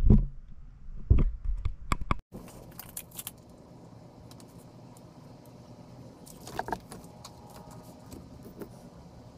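A few loud knocks and thumps from handling work in the first two seconds, then low, steady background noise with scattered light clicks and a short clatter about two-thirds of the way through.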